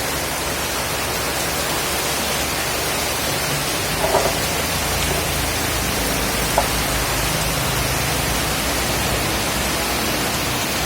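Steady hiss of a heavy tropical downpour falling, with faint brief knocks about four and six seconds in.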